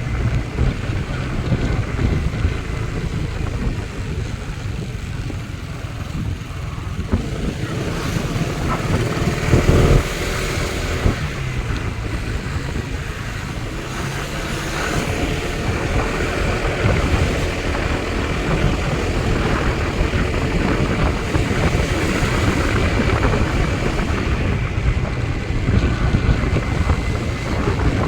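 Wind buffeting the microphone, a steady, uneven low rumble.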